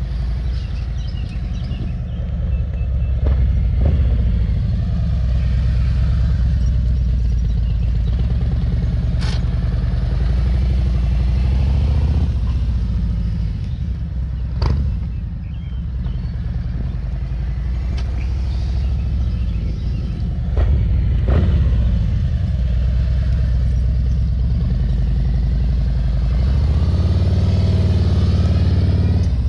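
Motorcycle engine running at low speed, its revs rising and falling with the throttle as the bike is ridden slowly through tight turns, with a few sharp clicks.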